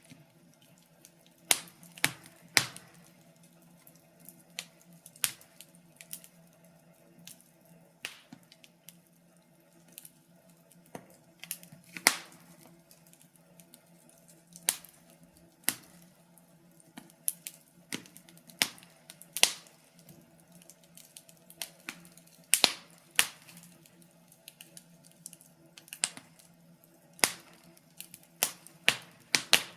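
Wood fire crackling: sharp irregular pops and snaps, a few each second, over a faint steady hum.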